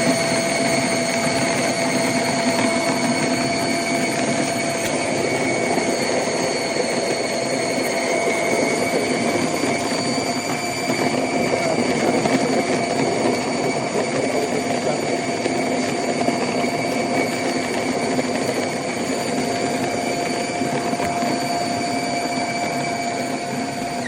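Built-in burr grinder of a Gevi drip coffee maker grinding coffee beans: a steady motor whine over a grinding rattle, which stops suddenly at the very end.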